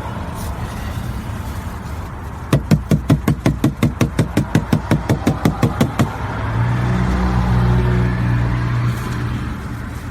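Chevy Impala 3.5-litre V6 cranking on the starter, about five even pulses a second, for about three and a half seconds. It then catches and runs at a steady idle, a little louder at first and settling after a couple of seconds. This is the first start after fresh oil and a new filter.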